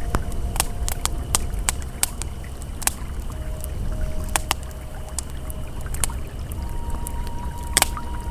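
Campfire crackling and popping in sharp, irregular snaps over the steady low rush of a flowing river, with a faint held ambient tone that shifts pitch now and then.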